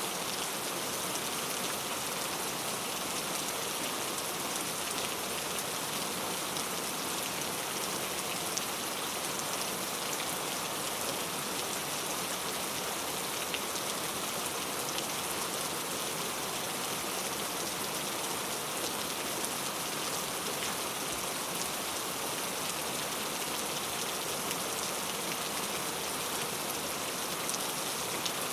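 Heavy, steady rain falling, an even hiss with faint drop ticks and no thunder.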